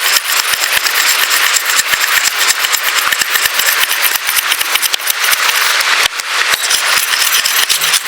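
Wood campfire crackling and popping close by: a dense run of sharp snaps over a steady hiss.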